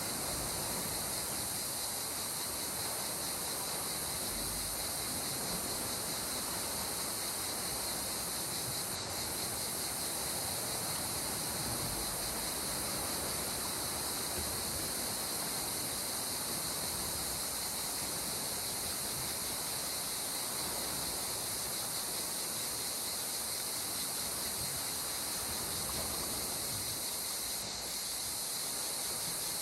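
Calm sea water washing softly and evenly under a constant high-pitched hiss, with no waves breaking.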